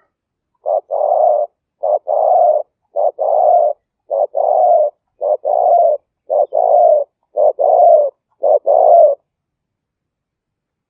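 Spotted dove cooing: eight two-part coos, each a short note followed by a longer one, repeated about once a second, then stopping about nine seconds in.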